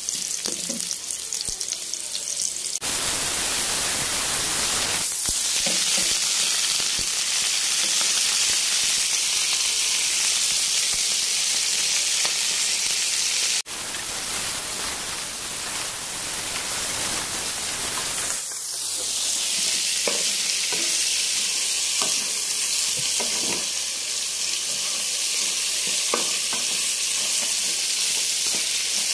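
Food sizzling in hot oil in a pan, stirred with a wooden spatula that knocks and scrapes now and then: at first sliced shallots, garlic and ginger being sautéed until fragrant and lightly yellowed, later freshwater crayfish frying in a wok. The sizzle jumps louder about three seconds in and cuts out for an instant around the middle.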